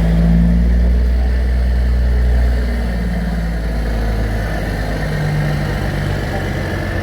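A large vehicle engine running at a steady low idle, a little louder for the first couple of seconds before easing off slightly.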